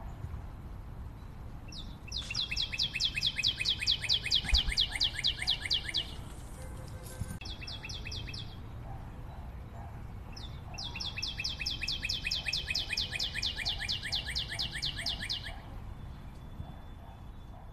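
A songbird singing a fast, even trill of rapidly repeated high notes, given twice for about four seconds each with a short burst in between, over a steady outdoor background hiss.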